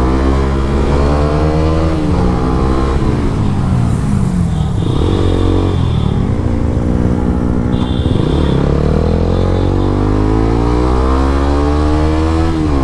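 Motorcycle engine under way, its pitch climbing as it revs through a gear, then dropping at the shift, several times over. Two short high-pitched tones sound near the middle.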